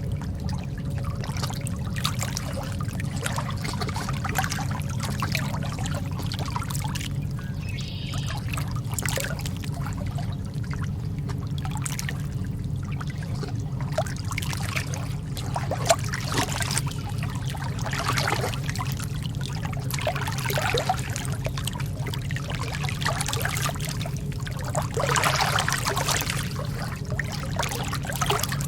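Calm lake water lapping and trickling in many small, irregular splashes over a steady low rumble.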